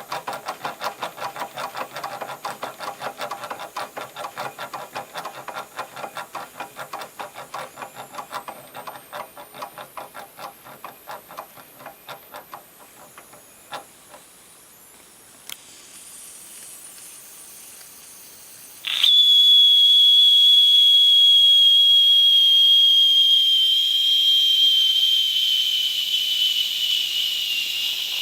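J. Falk model 143/2 toy steam engine running with a fast, even beat that slows and dies away about halfway through, leaving a faint hiss of steam. A few seconds later its steam whistle blows loud and steady on one high note that sinks slowly as the pressure falls.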